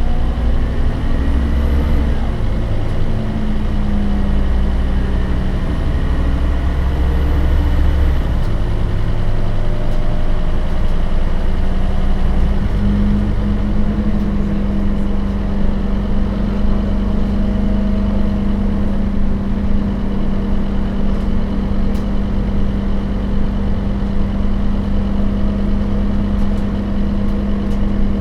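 Scania DC9 five-cylinder turbodiesel of a Lahti Scala / Scania K270UB bus with a ZF Ecomat automatic gearbox, running steadily. About halfway through the engine note changes and then holds an even low hum.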